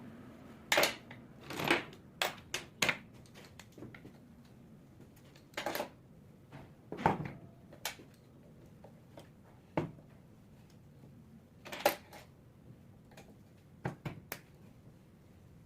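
Irregular clinks, clicks and knocks of hand tools and metal alternator parts being handled, coming in small clusters with short quiet gaps between them.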